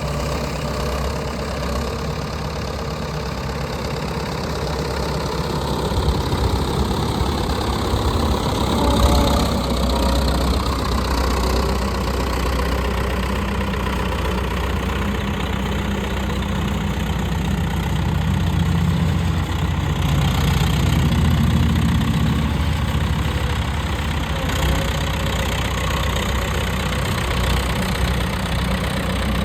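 Diesel engine of a 1985 Versatile 276 bi-directional 4WD tractor running, a little louder with a change in engine speed in the first half, then steady.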